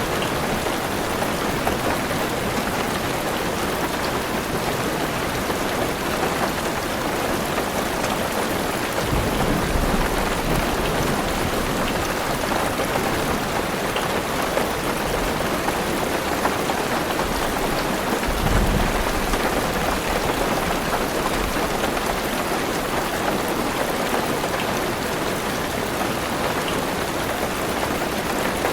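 Heavy rain falling steadily on a car roof, a dense even patter, with two short low rumbles of thunder, about a third of the way in and again past halfway.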